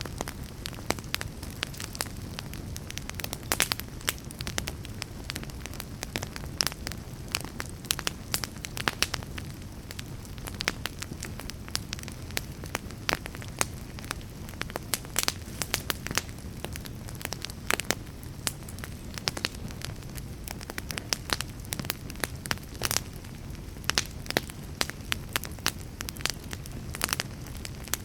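Wood fire crackling steadily, with a low rumble under irregular sharp pops and snaps.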